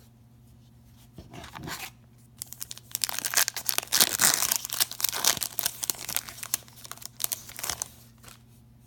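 A trading card pack wrapper being torn open and crinkled: a couple of soft rustles, then a dense stretch of crackling from about two and a half seconds in until near the end.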